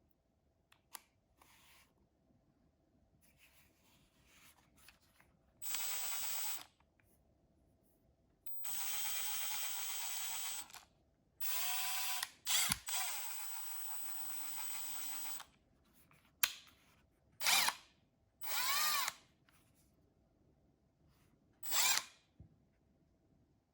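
Milwaukee M12 FUEL FID2 brushless impact driver run in a series of trigger pulls, about eight in all: some last about two seconds, others are short blips. The motor whine rises in pitch as each pull spins up.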